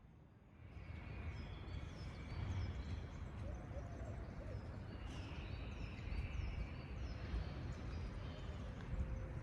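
Outdoor ambience: small birds chirping repeatedly over a steady low rumble, starting about a second in.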